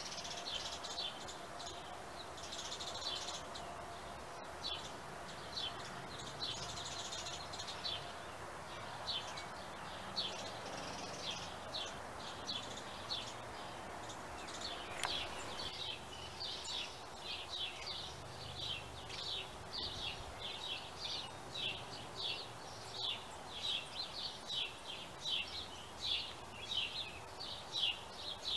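Songbirds chirping, with short high chirps coming more often in the second half at about two a second, over a steady low background hum.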